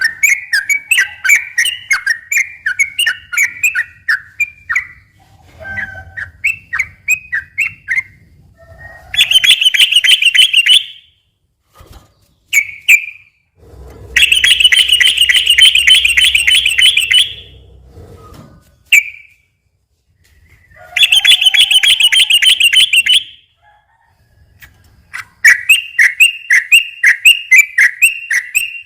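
Yellow-vented bulbul (trucukan) singing. Runs of quick, repeated chirping notes alternate with three rapid, buzzy trills (the 'ropel'), each lasting two to three seconds, with short pauses between phrases.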